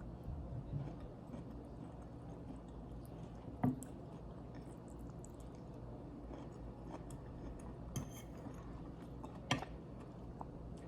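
Quiet chewing and mouth sounds of someone eating, with a few sharp clinks of a fork against a plate, the loudest about a third of the way in and two smaller ones near the end.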